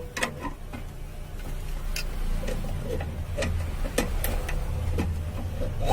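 Scattered light clicks and knocks of a ceiling fan being handled and set into a bench vise, over a low steady hum.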